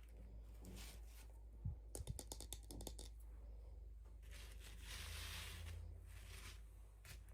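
Faint handling of toy packaging: a quick run of small clicks and taps, then a couple of seconds of rustling and crinkling, over a steady low hum.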